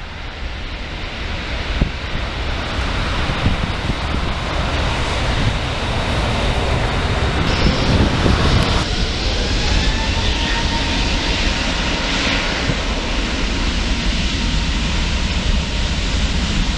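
Wide-body jet airliner's engines running as it passes close by. The noise grows louder over the first few seconds, and a steady whine joins it about halfway through.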